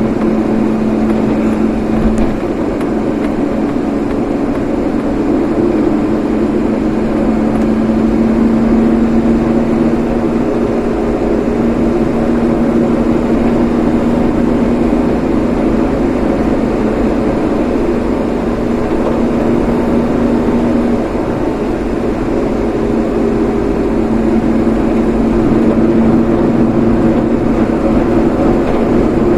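A vehicle driving steadily: a continuous engine hum and road noise, dipping slightly about two-thirds of the way through.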